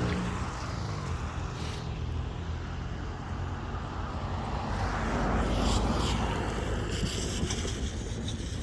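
Steady rumbling of a passing vehicle with wind noise on the microphone, swelling slightly about halfway through.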